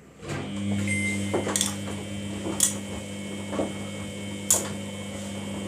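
Samsung front-loading washing machine's drum motor starting up about a third of a second in and turning the drum with a steady hum, the laundry knocking inside roughly once a second.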